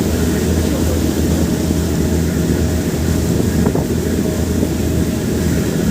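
Steady low engine rumble with a faint constant hum, over a haze of wind noise on the microphone.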